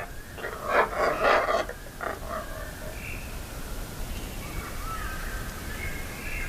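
An animal giving several short, harsh calls in the first two seconds, then fainter thin calls.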